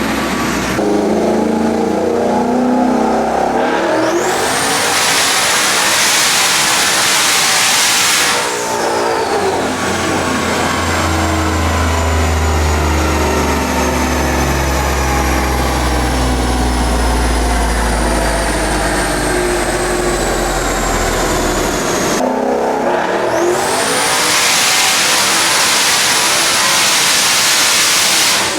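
Twin-turbo Ford Coyote V8 in an S650 Mustang run at full throttle on a chassis dyno, going up through the gears to check the transmission. It goes through two loud full-power stretches, one about 4 seconds in and one near the end. Between them is a long coast-down with the engine note falling.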